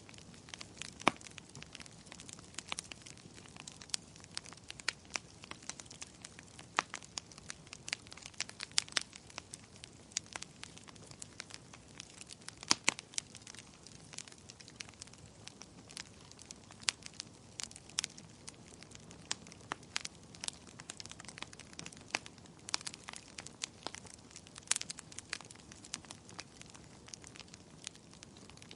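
Wood fire in a fireplace crackling, with irregular sharp pops and snaps over a soft steady hiss; one pop about a second in and another about 13 seconds in stand out.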